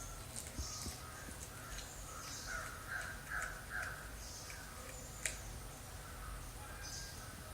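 Faint animal calls, about four short ones in quick succession around three seconds in, with a few light clicks, from the cat video playing on the device.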